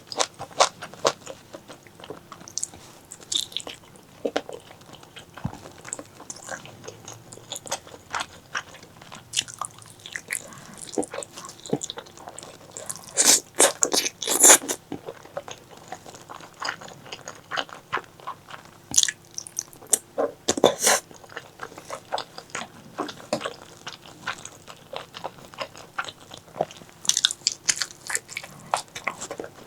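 Close-miked eating sounds: a steady run of wet chewing and mouth clicks as spicy pork leg curry is eaten, with a few louder clusters of bites about halfway through, around two-thirds in and near the end.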